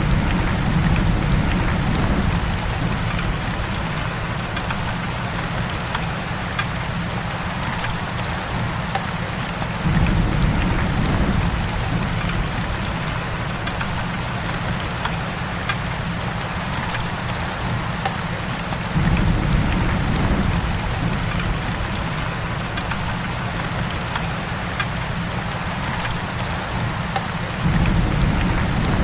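Heavy rain falling steadily, a dense even hiss of drops. A low rumble under it swells up sharply about every nine seconds, three times, and eases off between.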